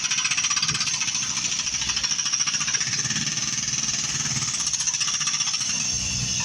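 Jackhammer hammering at a construction dig, a rapid even clatter that goes on without a break.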